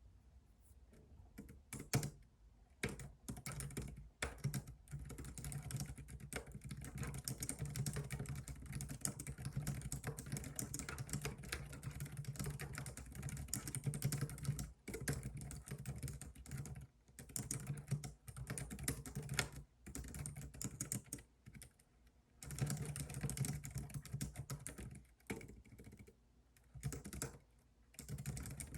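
Computer keyboard typing in fast runs of keystrokes, starting about a second in and broken by several short pauses.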